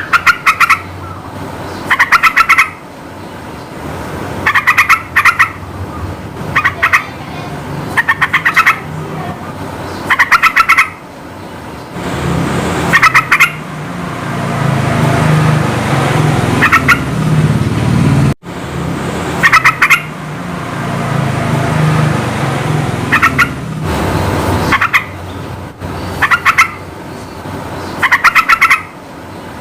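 Yellow-vented bulbul singing: short bursts of quick, bubbly notes repeated every second or two. Under the song runs a low rumble of background noise that swells through the middle of the passage.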